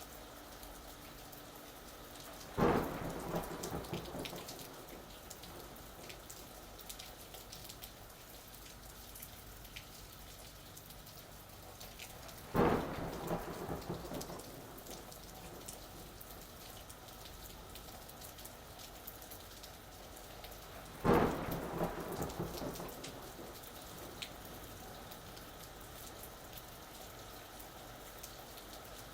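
Steady rain falling, with three sudden claps of thunder, each fading out in a rumble over a couple of seconds: one near the start, one near the middle and one about two-thirds of the way through.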